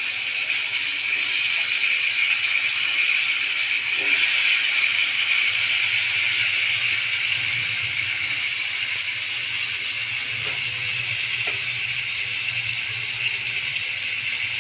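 Brinjal pieces in spiced oil sizzling in a hot kadhai over a high gas flame, a steady frying hiss with a few faint ticks. A low hum joins about five seconds in.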